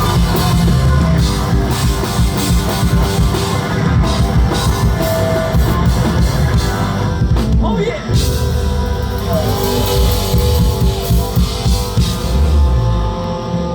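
Live rock band playing loud with drum kit, guitars and bass, with a brief break in the sound about eight seconds in.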